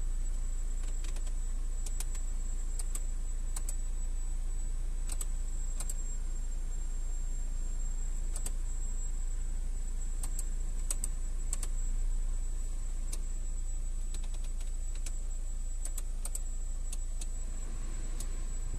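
Honda City i-DSI four-cylinder engine idling warm, heard from inside the cabin as a steady low hum with scattered light clicks.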